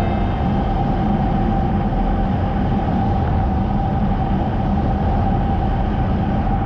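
Honda CBR250R motorcycle cruising at a steady speed: a constant rush of wind and road noise over the engine, with one steady tone running through it.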